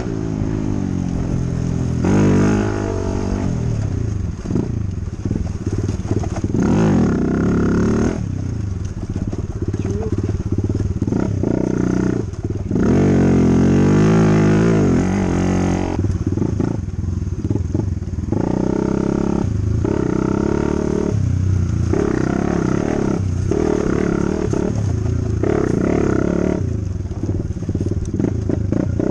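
Dirt bike engine riding a trail, revved up and eased off over and over, so its pitch keeps rising and falling.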